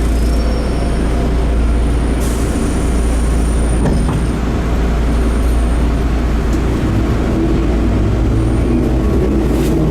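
Enshu Railway 30 series electric train running, heard from inside the car: a steady low rumble and running noise, with a pitched motor hum coming in over the last few seconds.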